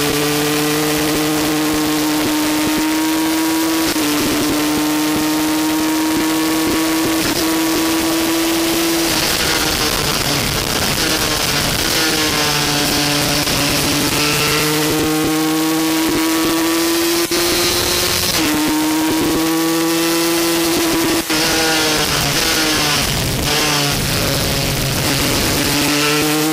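Aprilia RS125 two-stroke single-cylinder race bike at high revs, heard onboard. Its pitch climbs steadily through each gear and drops at every shift or braking point, several times over, with wind rushing over the fairing throughout.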